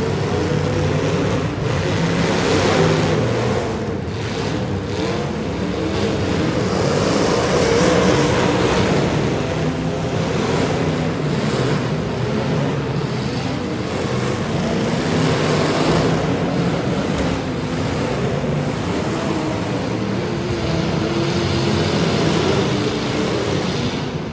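Demolition derby car engines running hard and revving, their pitch rising and falling, with a few dull impacts.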